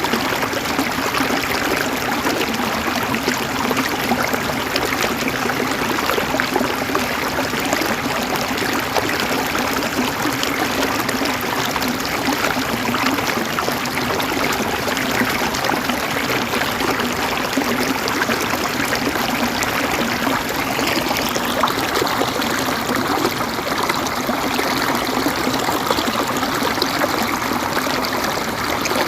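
River water flowing and gurgling over stones, a steady rushing with trickling splashes.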